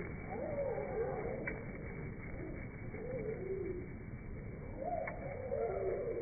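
Small songbirds' chirps slowed down eight times, so that they come out as low, wavering calls that slide up and down in pitch, in three bouts: early on, about three seconds in, and a longer one near the end.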